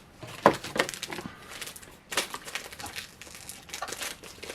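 Snack packaging being handled and opened: irregular plastic-wrapper crinkling and crackling, with a sharp crackle about half a second in.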